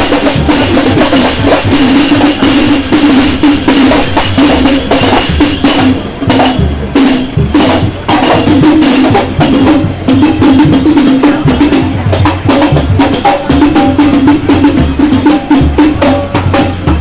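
Loud music played through a large outdoor sound system, with jingling tambourine-like percussion over a steady beat and heavy bass pulses.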